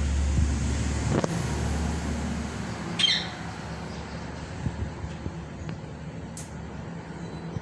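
A single short squawk from a ringneck parrot about three seconds in, falling in pitch. A low rumble underneath drops away after the first second, and a few faint clicks follow later.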